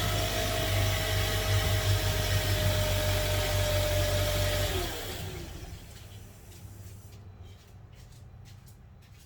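Car engine running steadily, then switched off about five seconds in, its pitch falling as it winds down. A few faint knocks follow.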